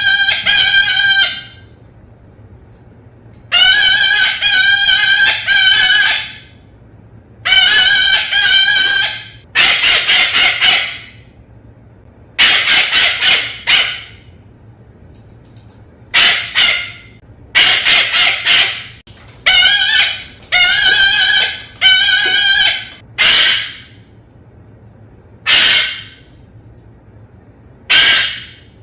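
Parrot calling over and over: loud, harsh, honking calls in bouts of one to two seconds, about a dozen of them with short pauses between.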